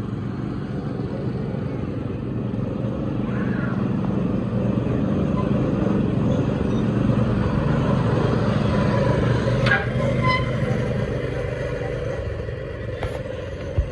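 Small gasoline go-kart engines running on a track, a steady engine drone that grows louder towards the middle and eases off near the end. A couple of short sharp clicks occur in the second half.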